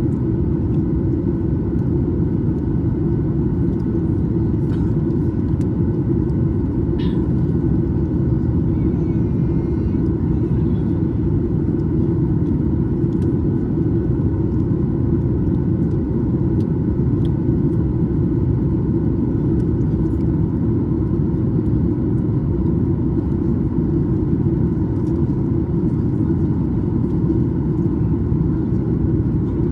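Steady airliner cabin noise inside a Boeing 737 MAX 9 in flight: a constant low rush of engine and airflow, with no change in pitch or level.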